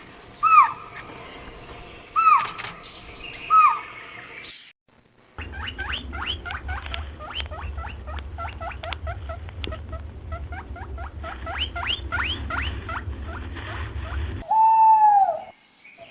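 A run of animal calls: short calls that drop in pitch, about one every second and a half, then a brief gap, then a long rapid series of high squeaky chirps over a low hum, and near the end the start of a longer, steadier call.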